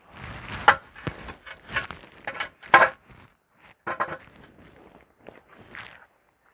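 A run of irregular short knocks and crunches, about a dozen over several seconds, loudest in the first three seconds and fainter after.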